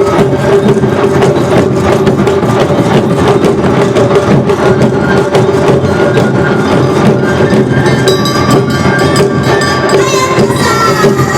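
Awa odori festival band playing live: drums and a small hand gong beat a fast, steady rhythm, and a sustained tone sounds under it. Higher melodic lines come in near the end.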